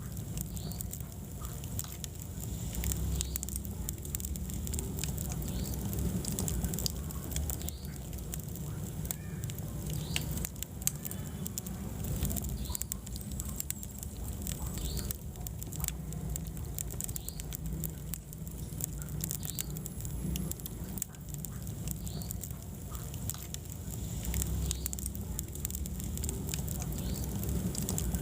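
Wood fire burning in a fireplace: a steady low rumble of flames with frequent small crackles and pops of burning wood.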